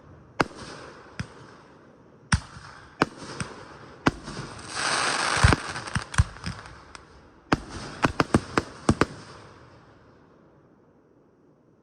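Aerial fireworks going off: a string of sharp bangs with echoing tails, a roughly one-second rush of crackle about halfway, then a rapid cluster of bangs that fades out near the end.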